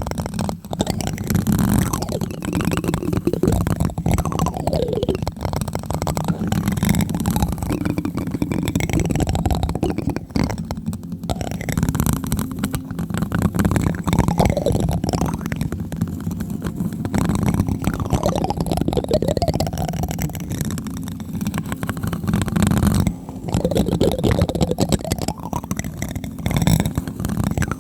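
Plastic spoon tapping on a microphone close up: a dense, unbroken run of quick, muffled taps that come out deep and rumbly through the mic.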